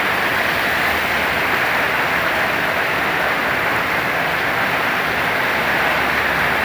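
Heavy rain pouring in strong wind: a steady, dense hiss.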